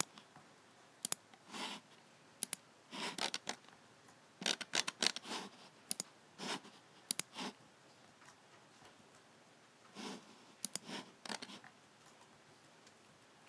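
Logicool G7 computer mouse clicking in irregular bursts, sharp button clicks mixed with short scratchy strokes, stopping about three-quarters of the way through.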